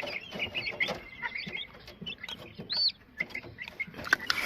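Domestic hen clucking among many short, high peeps and chirps from chicks and other cage birds.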